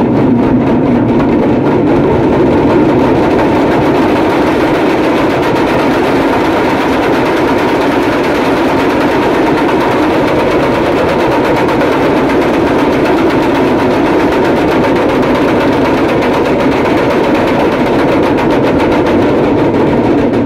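A troupe of damrus, hand-held hourglass drums, played together in a fast, continuous, loud rattle.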